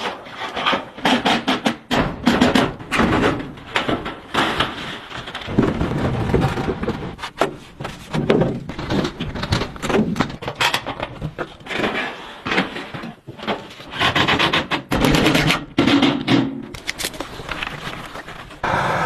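Wood being knocked, scraped and rubbed in quick, irregular strokes, as in cutting and working branches.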